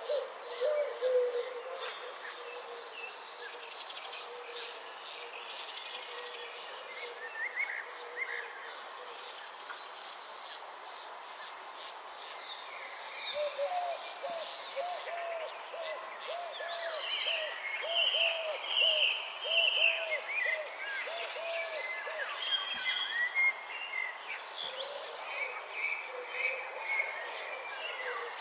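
Outdoor nature chorus of insects and birds: a steady high-pitched insect trill that stops about a third of the way in and comes back near the end, scattered short bird chirps, and a run of repeated lower calls in the middle.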